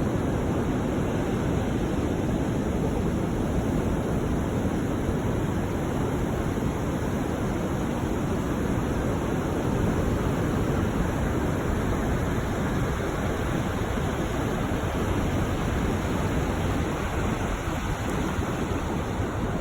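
Surf washing up a beach: a steady rush of breaking waves with no distinct separate crashes.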